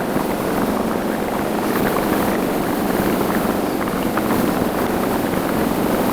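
Motorcycle on the move at steady speed: engine running evenly under road and wind noise on the microphone.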